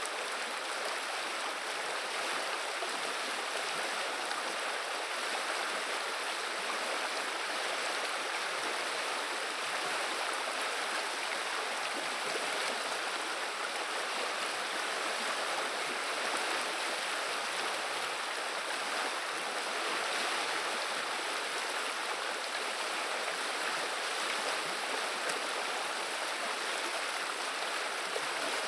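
The Viliya river running: a steady, even rush and murmur of flowing water, unchanging throughout.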